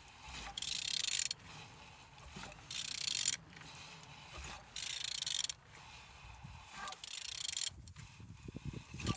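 A used engine being turned over by hand, with three scraping strokes about two seconds apart and a few short knocks near the end. It is turning good, as the engine should when it is not seized.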